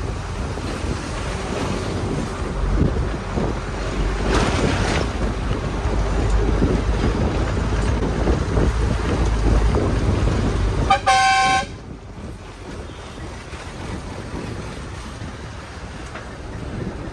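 Steady low vehicle rumble, then a vehicle horn sounds once, briefly, about eleven seconds in; after it the background is quieter.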